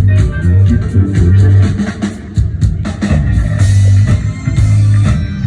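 Live band playing an instrumental rock jam: electric guitar over a heavy, repeating bass line and a steady drum-kit beat.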